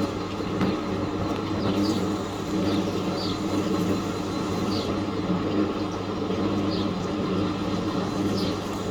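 Fisher & Paykel MW511 washing machine spinning, a steady hum that holds the same speed throughout.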